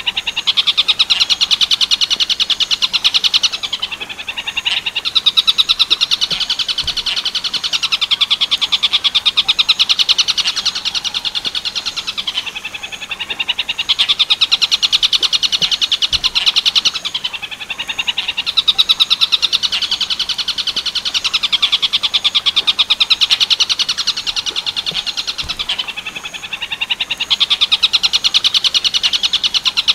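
Tengkek buto bird song in the 'werkudoro' style: a loud, very fast chattering trill of rapidly repeated notes, delivered in long phrases of several seconds with short breaks between them.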